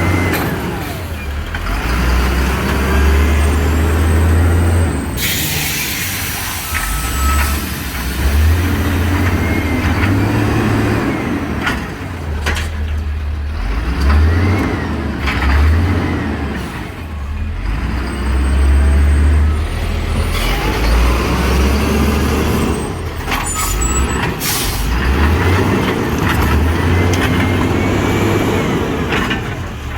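Old garbage truck's diesel engine running and revving up and down repeatedly during recycling collection, with loud air-brake hisses about five seconds in and again late on.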